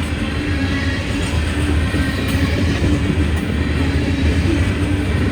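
A train running past with a steady low rumble and a diesel engine hum, slowly growing louder.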